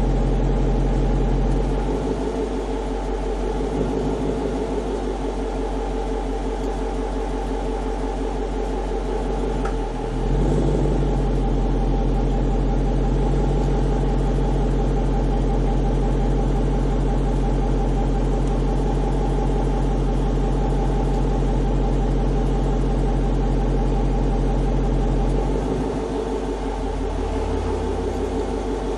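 2009 Dodge Challenger R/T's 5.7-litre HEMI V8 running at a steady speed through a CORSA Xtreme cat-back exhaust with JBA shorty headers, a deep, even drone. The sound eases slightly about two seconds in, comes back up around ten seconds, and eases again near the end.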